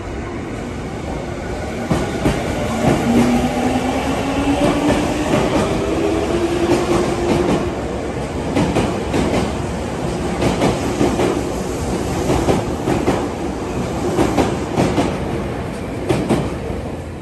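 Tokyu electric commuter train moving along a station platform: the motor whine glides upward in pitch during the first half, over a steady run of wheel clatter and knocks from the cars passing.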